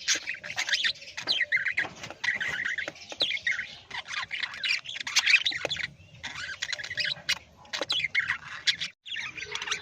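Many parrots chattering and squawking together: a dense, overlapping run of short chirps and harsh calls, with a brief break near the end.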